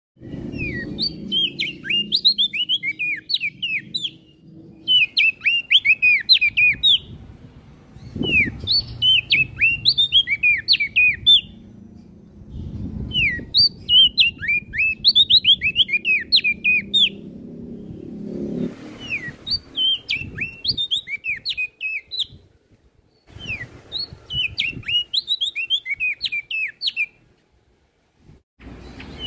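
Prenjak daun songbird singing: about six phrases of rapid, sharp, downward-slurred chirps, each phrase a couple of seconds long with short pauses between, over a low background rumble.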